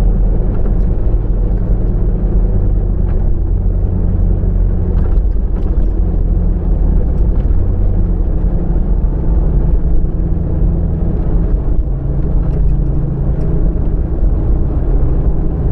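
Car driving, with a steady low road-and-engine rumble and a few faint ticks scattered through it.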